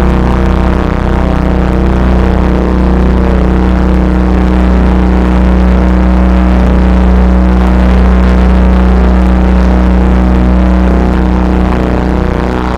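Loud drone-noise music: a deep sustained hum and a held low tone under a dense, grainy wash of noise, unchanging throughout.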